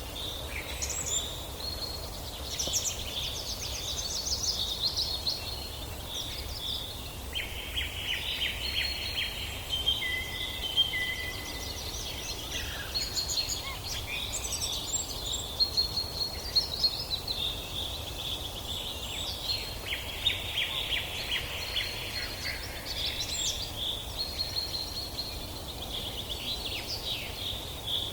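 Several birds chirping and trilling almost without pause, their calls overlapping, over a steady low rumble.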